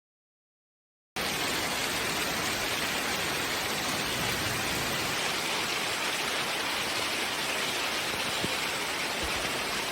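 Steady rain falling, an even hiss that starts abruptly about a second in after silence.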